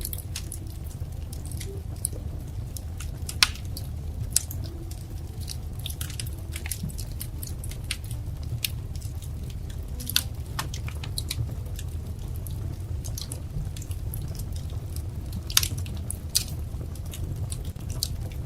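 Wood fire crackling, with irregular sharp pops scattered over a steady low rumble. A few louder snaps stand out, one a few seconds in and one near the end.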